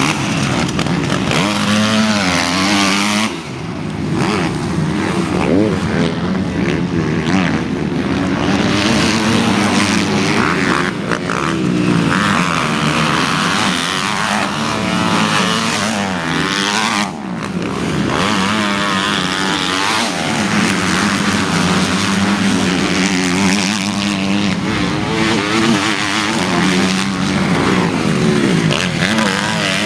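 Several motocross bikes racing, their engines revving up and down and overlapping as they accelerate and shift, with brief dips when they back off the throttle.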